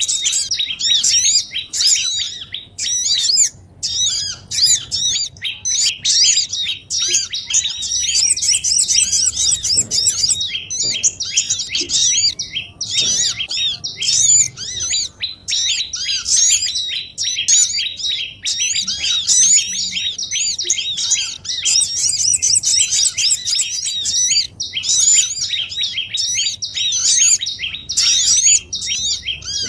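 Bird-luring recording of many small songbirds chattering at once: a dense, continuous mass of rapid high chirps and twitters, played to draw wild small birds in.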